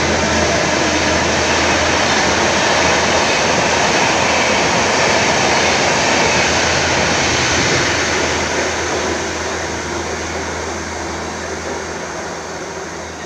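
Passenger coaches of an express train running through a station at speed without stopping: a loud, steady rush of wheels on rails and air. It fades gradually over the last five seconds as the end of the train passes and draws away.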